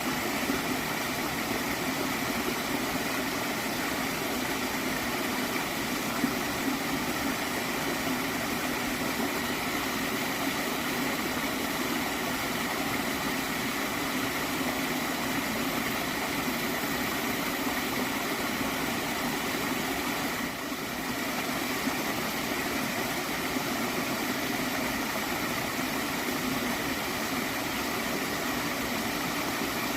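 Gently flowing stream gurgling in a steady, even rush of water, dipping briefly about twenty seconds in.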